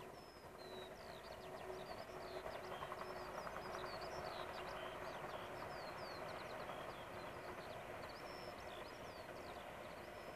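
Distant passenger train running along the line: a faint rumble that swells about two seconds in and slowly eases off. Small birds chirp throughout.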